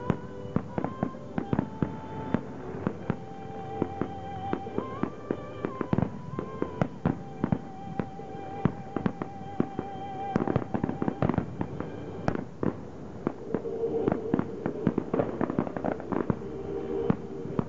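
Fireworks display: a rapid, irregular string of aerial shell bursts and crackling reports, several a second. Music plays underneath, with a long wavering held note through the middle.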